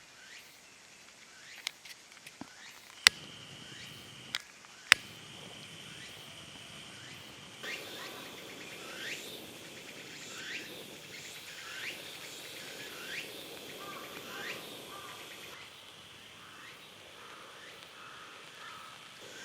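Outdoor calls of insects and birds. A steady high-pitched insect tone sounds first, then a run of short rising chirps repeats about every second and a half. Several sharp cracks come in the first few seconds.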